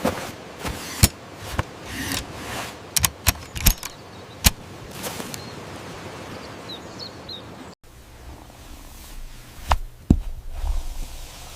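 A series of sharp knocks and clicks over a steady outdoor background, with a few faint bird chirps around seven seconds in; after an abrupt cut near eight seconds, a low hum underlies a few more knocks.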